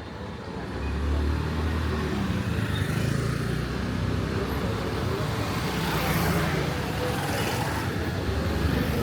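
Street traffic: a motor vehicle's engine running close by, louder from about a second in, with a hiss swelling around six seconds in.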